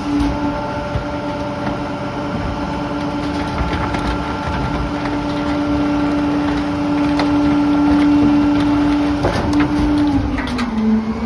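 Garbage truck engine running steadily at constant revs. Its pitch sags briefly about ten seconds in, then comes back up.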